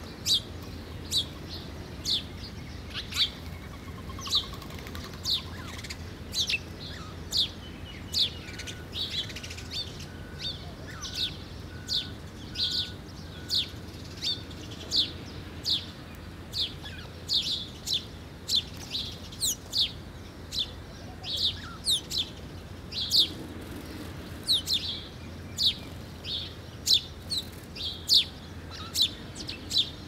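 Small birds chirping: a sharp, short chirp that drops in pitch, repeated about once a second or a little faster, with a fainter run of short even notes about nine seconds in.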